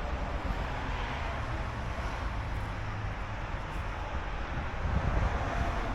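Steady outdoor hiss of rain with wind buffeting the microphone and a low rumble underneath.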